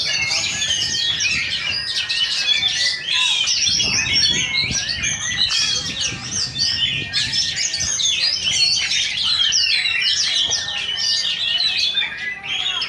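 Many oriental magpie-robins (kacer) singing at once, a dense, unbroken chorus of overlapping whistles and chirps.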